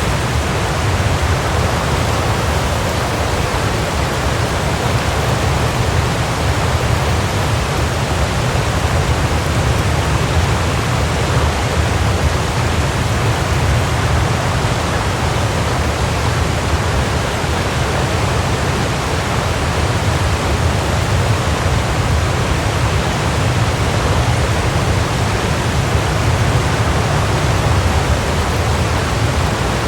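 Waterfall: a steady, unbroken rush of falling water, strongest in a deep low rumble.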